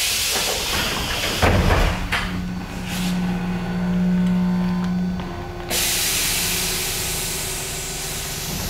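Tobu train's loud compressed-air hiss, broken about a second and a half in by two heavy thumps, then a steady low hum for a few seconds before the hiss starts again suddenly near six seconds.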